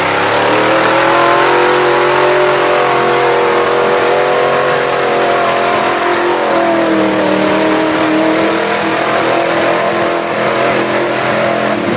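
Mud truck's engine running hard at high revs on a run through a mud pit. The pitch climbs at the start, dips about six seconds in, then climbs and holds until it falls off near the end.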